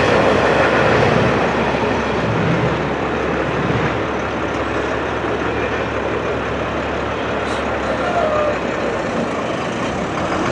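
The tail end of a double-stack intermodal container train rolling past and away, a steady rumble of wheels on rail that eases a little as the last cars recede.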